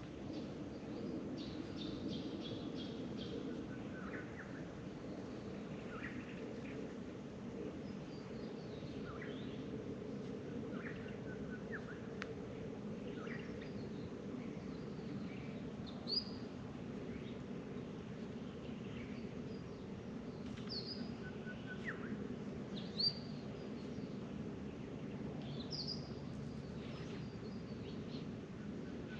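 Birds calling: scattered short chirps and whistled notes, several of them quick rising chirps, over a steady low background hum.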